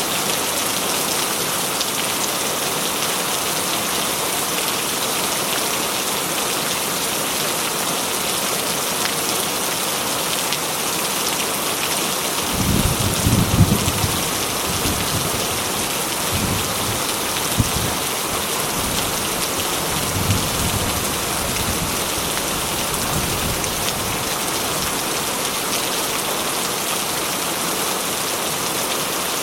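Heavy rain drumming steadily on a corrugated tin roof. About twelve seconds in, a low roll of thunder rumbles in, is loudest at first, then rolls on in weaker swells for about ten more seconds.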